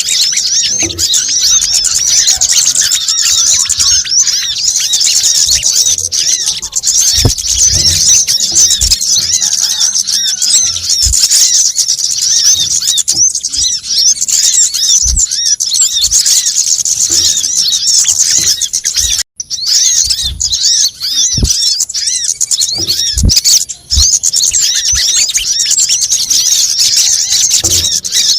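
Frantic, continuous chattering of many small birds, a dense mass of rapid high chirps and trills from a sunbird lure recording (kemade, sogon and brown-throated sunbird). Scattered low thuds sound through it, and it breaks off briefly twice in the second half.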